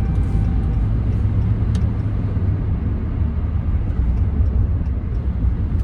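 Steady low rumble of a 2014 Ram 1500 with the 5.7 Hemi V8 driving along, engine and road noise heard from inside the cab.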